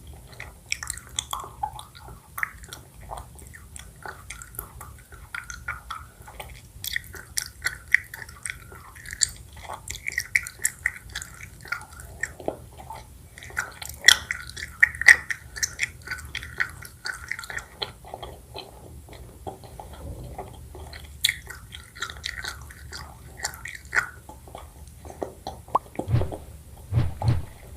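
Close-up chewing of honeycomb: sticky, wet smacking and soft crackling of wax and honey in the mouth, with irregular bites and smacks throughout and a few low thumps near the end.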